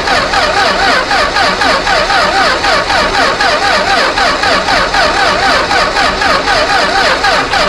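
Chrysler 245 Hemi straight-six running on a Holley 350 carburettor. A steady engine note carries a higher tone that wavers up and down about three times a second.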